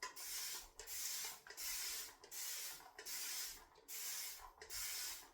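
Shaving brush working a wet soap lather in regular back-and-forth strokes, about seven swishing, hissing strokes. Water is being worked into a thirsty soap, which takes it up readily.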